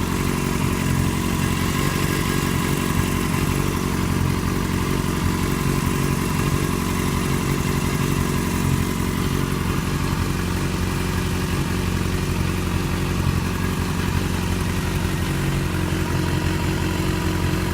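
2008 Yamaha FZ6's 600 cc inline-four engine running steadily at a constant speed, with an unidentified ticking noise that the owner hears when holding it around 2,000 rpm after the bike has sat switched off for some hours.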